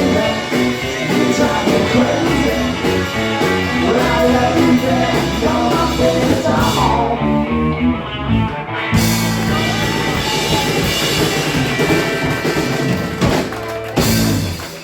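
Live rock and roll band, with electric guitar, bass and drum kit, playing the closing bars of a song. About nine seconds in it moves to a held ending chord, and near the end a final loud hit closes it.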